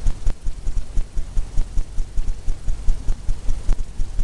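Paintbrush tapped repeatedly against a stretched canvas, giving a quick, even run of dull thumps, about five a second, as wet paint is dabbed on.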